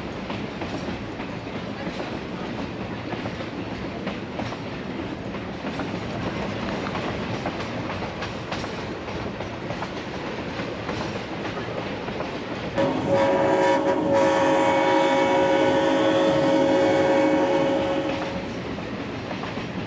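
Passenger train running along the rails with a steady rumble. About two-thirds of the way in, the locomotive's horn sounds one long, loud, steady chord for about five seconds, then cuts off.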